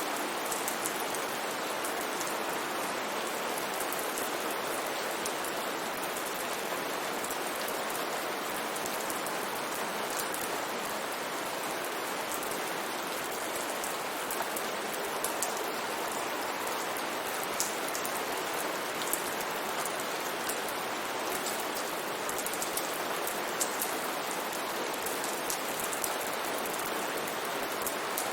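Steady rain falling on a surface: an even, dense hiss with many small drop ticks scattered through it.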